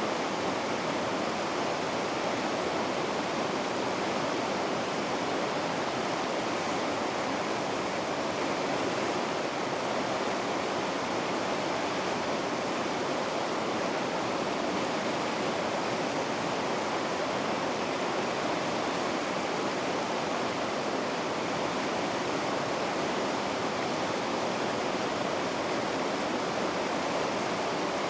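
River rapids rushing: a steady, unbroken wash of white water.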